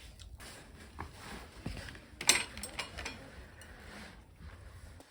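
Utensils clicking and clattering during cutting and eating, a few light scattered clicks with one sharp, louder clack a little over two seconds in.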